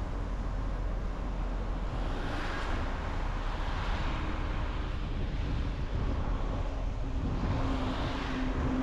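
A car driving at road speed: steady tyre and wind noise over a low rumble, with the hiss swelling and fading a few times. A faint hum rises slightly in pitch and grows louder near the end.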